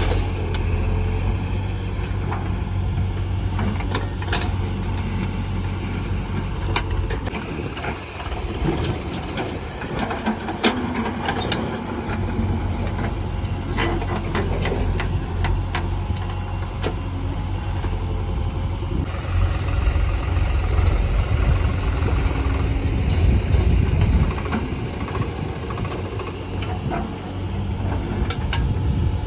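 Heavy diesel engine of a JCB backhoe loader running under working load, with scattered sharp knocks and clanks from the machine at work. The engine eases briefly about eight seconds in and is loudest a little past the middle.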